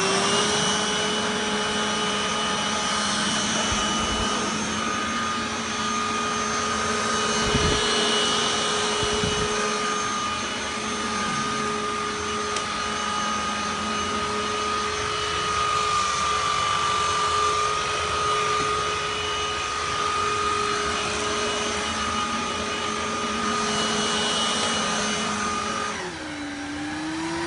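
Deik 2-in-1 cordless stick vacuum cleaner running steadily with a high motor whine, with a few low bumps; its pitch drops near the end as the motor slows.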